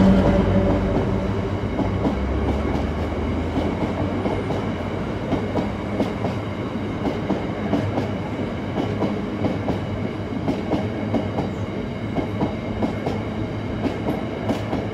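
A freight train's open box wagons rolling past, their wheels clicking over the rail joints in a steady, uneven run of clicks over a rumble. The diesel locomotive's engine note fades away in the first few seconds.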